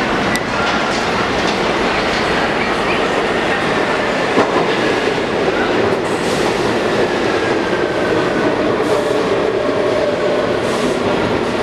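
New York City Subway R46 train running through the station, its wheels clattering over the rail joints with a faint wheel squeal over a steady rumble.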